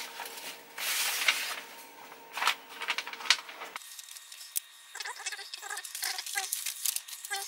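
A paper envelope and a thin fabric-like shopping bag being handled: rustling and crinkling, with a few sharp louder crackles in the first few seconds.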